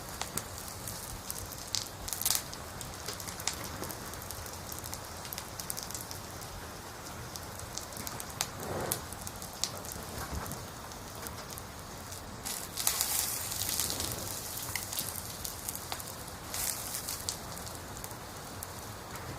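Steady rain hiss with scattered crackles and a few louder bursts of noise.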